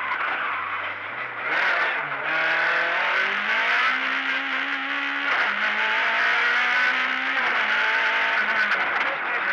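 Competition car's engine heard from inside the cockpit, accelerating and shifting on a course. The revs climb and fall with gear changes, with a clear drop about five seconds in, over steady road and cabin noise.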